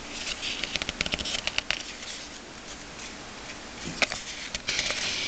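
Trading cards being handled and flicked through, with dry rustling and a run of quick sharp clicks in the first two seconds, then another few clicks at about four seconds.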